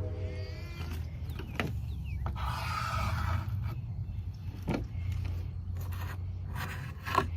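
Scraping and a few sharp knocks, such as wood being handled, over a steady low rumble.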